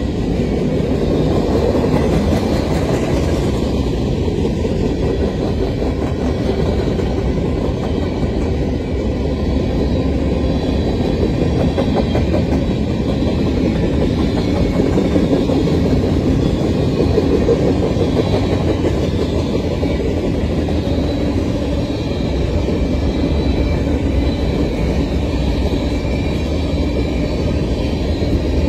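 Freight cars of a long mixed freight train rolling past: a steady, continuous noise of steel wheels on the rails as gondolas, hoppers and tank cars go by.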